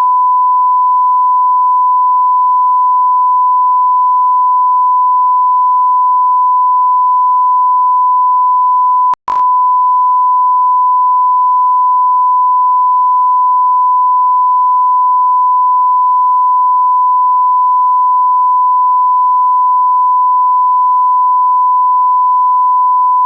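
Electronic 1 kHz sine-wave beep tone, held steady and loud, dropping out for an instant with a click about nine seconds in.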